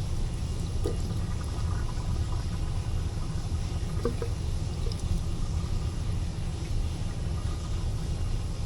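Water being poured into an air handler's condensate drain line to flush it, over a steady low rumble, with a few light clicks.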